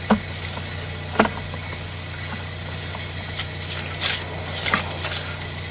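An engine idling steadily, with a few sharp clicks and knocks over it: one right at the start, one about a second in, and a cluster near the end.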